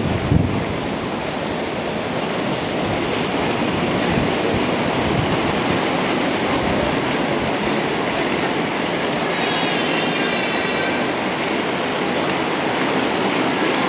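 Steady rushing noise of rain on a wet road, with a short high-pitched tone about ten seconds in.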